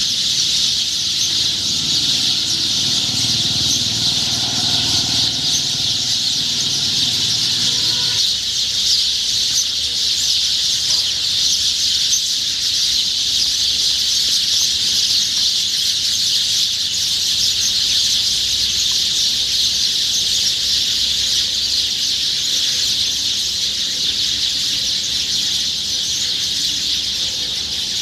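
Dense morning chorus of many small birds chirping at once, a continuous high-pitched chatter that never lets up. A faint low rumble sits underneath for the first eight seconds or so, then stops.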